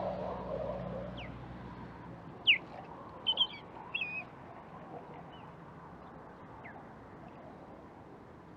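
Osprey calling: a string of short, high, downward-slurred whistles, the loudest about two and a half seconds in and several more close together just after, over a steady hum of distant traffic.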